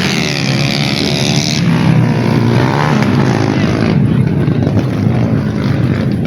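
Motorcycle engine running, its pitch rising and falling as it is revved.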